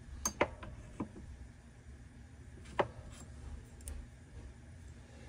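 Small steel dies from a dimple die set clinking and tapping together as they are picked through and tried, a few scattered sharp clinks, the loudest just after the start and about three seconds in.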